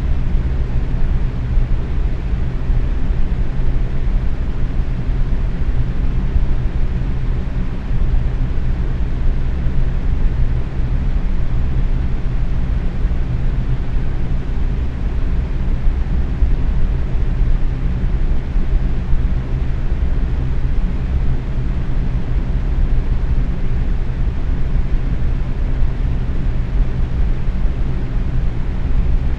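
Box fan running steadily at medium speed: an even rush of air that sits mostly low, with a steady low hum under it.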